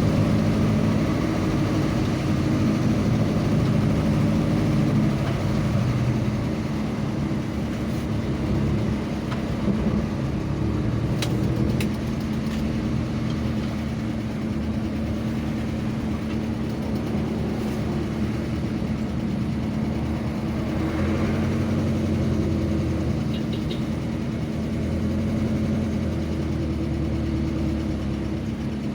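Road vehicle's engine running steadily while driving, its pitch shifting a little now and then, over low road rumble.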